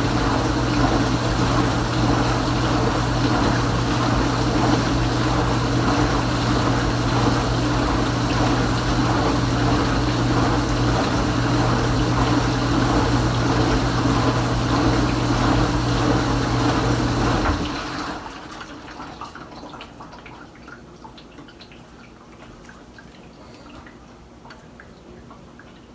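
Kenmore Ultra Wash 3 dishwasher's pump running with water rushing inside the tub over a steady motor hum; about two-thirds of the way through it shuts off suddenly, leaving faint dripping and trickling.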